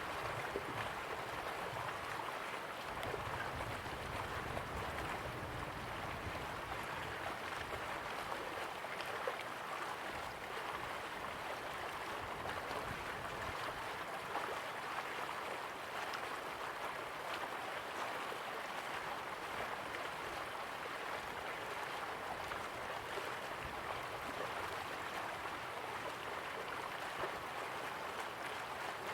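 River water flowing steadily, with a fine, even splashing and trickling.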